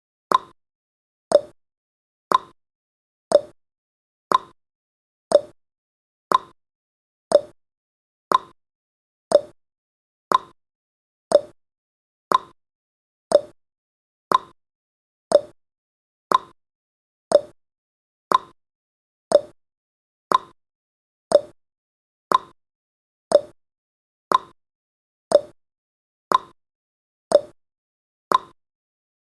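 Clock-tick sound effect of a countdown timer: a short, sharp tick once a second, alternating between a lower and a higher stroke like a tick-tock.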